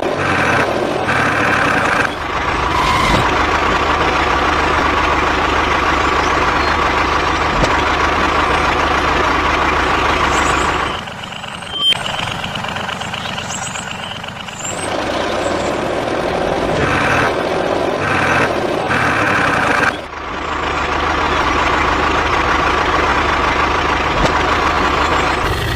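A small vehicle motor running continuously with a dense mechanical whirr. It drops quieter for a few seconds about eleven seconds in and dips briefly again near twenty seconds.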